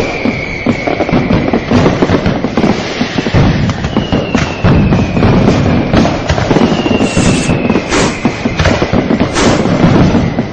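A dense fireworks barrage: continuous crackling and bangs, with whistling rockets whose long, slightly falling whistles come through about four and seven seconds in.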